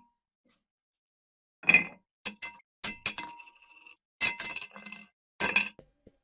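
Metal parts clinking and knocking together: a string of separate sharp strikes, some ringing briefly after the hit.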